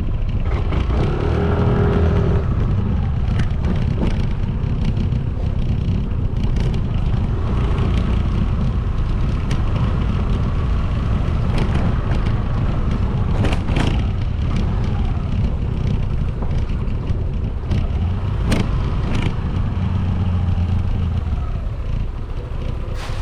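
Motorcycle on the move: a steady engine and road rumble heard from the bike, with a few sharp clicks or knocks about two-thirds of the way through.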